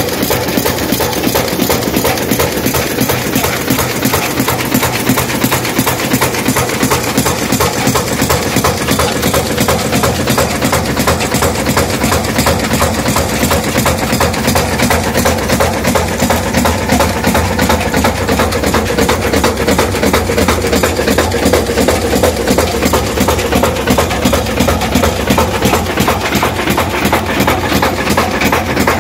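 A century-old stationary engine driving a village flour mill (atta chakki), running steadily with a fast, even clatter.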